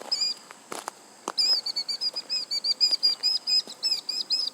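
Killdeer calling: a fast, steady run of short, high, piping notes, about six or seven a second, from about a second and a half in, typical of killdeer alarm calling around a threatened chick. Two sharp clicks come shortly before the run starts.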